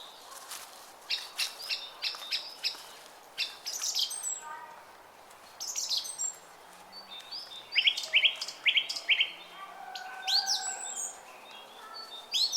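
Several small songbirds chirping and singing, with quick runs of short, sharp notes about a second in and again about eight seconds in. A faint, steady babble of a brook runs beneath them.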